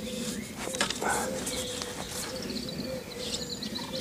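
Small birds chirping, with a quick run of high chirps near the end, over a steady low hum and a few faint clicks.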